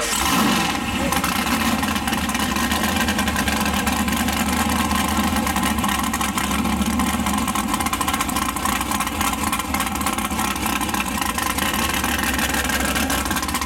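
Fox-body Ford Mustang drag car's engine idling steadily, loud, with a brief rise in level about half a second in, soon after being started.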